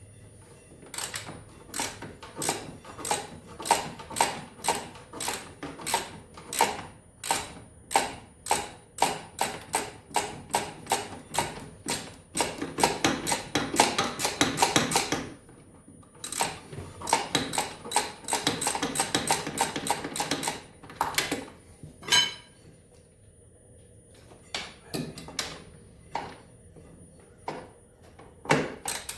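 Ratchet wrench clicking as it is worked back and forth on a bolt, steady strokes of about three a second, with two longer spells of fast continuous ratcheting in the middle and only a few scattered clicks near the end.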